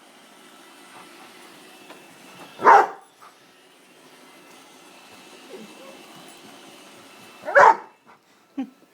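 A dog barking twice, single loud barks about five seconds apart, over a faint steady hum.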